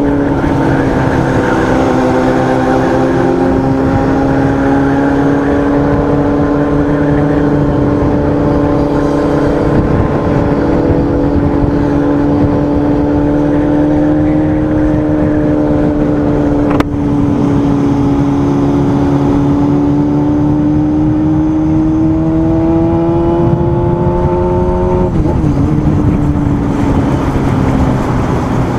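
Motorcycle engine running under steady throttle while riding, over constant wind and road noise. Its pitch creeps slowly up, then drops sharply about 25 seconds in.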